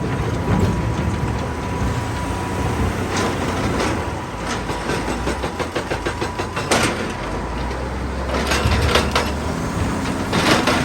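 Heavy excavator's diesel engine running steadily under load, with irregular knocks and clatter of rock and steel against it and a faint steady whine for the first several seconds.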